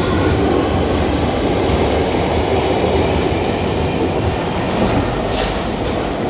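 London Underground Victoria line 2009 Stock train running through the platform, with a loud, steady rumble of wheels on the rails.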